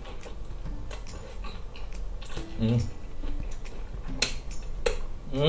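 A person eating crispy fried chicken: wet chewing with lip smacks and finger-licking clicks, a short hummed "mm" about halfway, and a louder falling "mm" right at the end.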